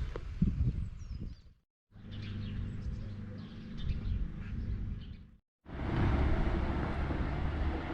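Outdoor ambience in three short cuts: a steady low rumble of road traffic with birds chirping over it.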